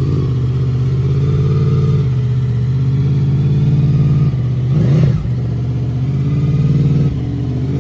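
Motorcycle engine idling steadily, with one quick throttle blip about five seconds in that rises and falls in pitch.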